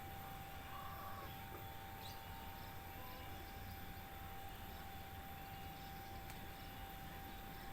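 Faint, brief bird chirps over a steady low background hum and rumble.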